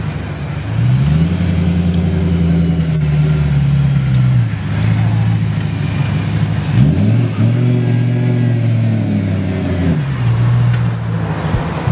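BMW M3's V8 engine pulling away at low speed: the engine note rises about a second in, holds, and falls off; near seven seconds it rises again, holds, and drops back near ten seconds.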